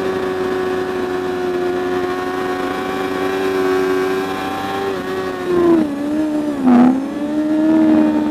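Superbike racing motorcycle engine held at steady high revs. About five seconds in the pitch falls in steps, with two short loud bursts, typical of hard braking and downshifting into a corner. Near the end the revs pick up again and steady.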